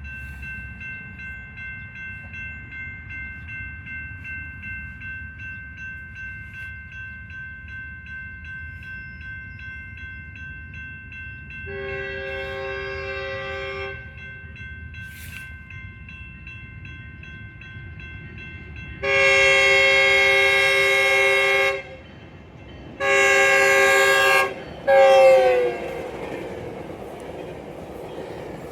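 Locomotive air horn sounding four blasts over the rumble of a passing train: a medium one, a long one, then two shorter ones, the last falling in pitch as the locomotive goes by. Before and under the first blast a grade-crossing bell rings steadily.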